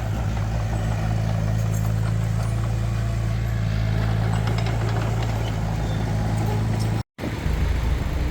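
Heavy diesel engine of earthmoving machinery running steadily with a constant deep hum. About seven seconds in the sound drops out for a moment and comes back as a deeper engine rumble.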